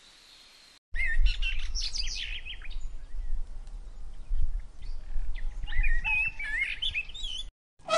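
Several birds chirping and whistling in quick, wavering calls over a steady low rumble. The birdsong starts abruptly about a second in and cuts off just before the end.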